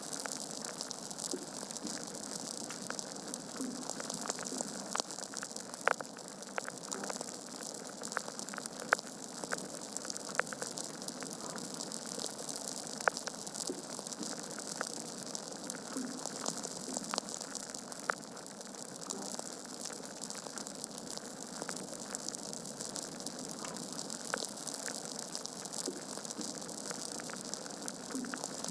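Wood fire in a fireplace crackling: a steady hiss of burning logs with irregular sharp pops and snaps, a few louder pops about six, nine and thirteen seconds in.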